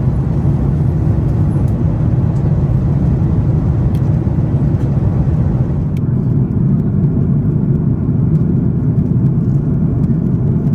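Steady cabin noise of a Lufthansa Airbus A340-600 in flight: a deep, even rush of airflow and engine noise from its four Rolls-Royce Trent 500 engines, with a faint click about six seconds in.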